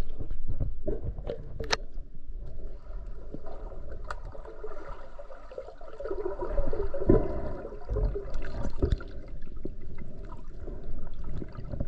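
Water gurgling and sloshing, with scattered short knocks, as heard by a camera at or below the water's surface.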